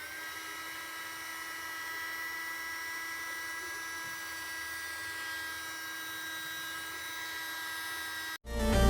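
Small electric motor of a mini vacuum cleaner running at full speed with a steady high whine, settling just after switching on and cutting off abruptly near the end.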